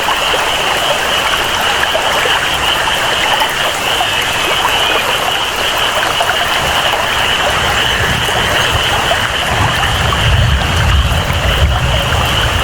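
Rainforest ambience: steady rain and flowing water with a continuous high-pitched chorus, likely frogs. A low rumble swells in from about eight seconds in.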